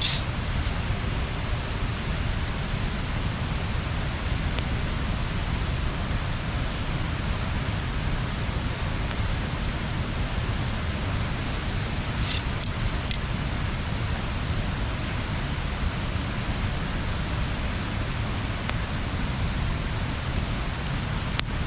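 Wood bonfire burning: a steady rushing noise with a few sharp crackling pops, two of them about twelve and thirteen seconds in.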